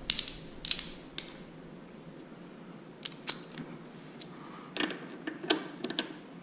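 Light metallic clinks and taps from hand tools and exhaust hardware being handled, a few at a time with pauses between.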